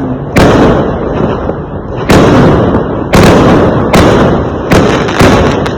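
Fireworks exploding: about five loud bangs at uneven intervals, each trailing off in a rumble.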